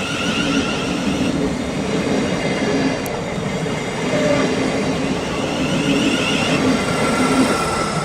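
A train running along the track, with a steady rumble and a faint wavering whine over it.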